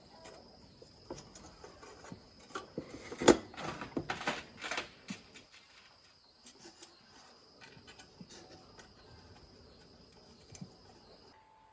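Scattered sharp clicks and knocks, bunched together about three to five seconds in, over a steady high-pitched whine that stops near the end.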